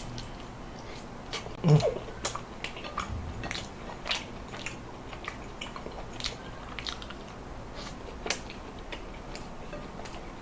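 Close-miked chewing and biting at a mukbang meal: many small wet clicks and crisp crunches of food in the mouth. About two seconds in there is one short, louder hum-like sound from the eater.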